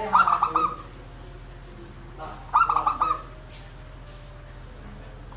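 Zebra dove (perkutut) cooing: two quick staccato phrases of rapidly repeated notes, about two and a half seconds apart, over a low steady hum.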